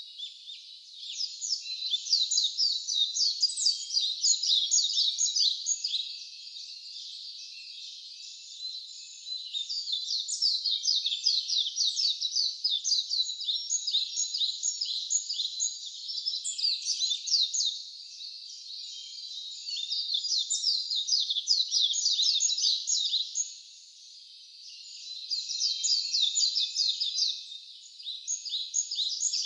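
Songbird singing long, rapid, high-pitched trilling songs of short chirping notes, in bouts of several seconds separated by brief pauses.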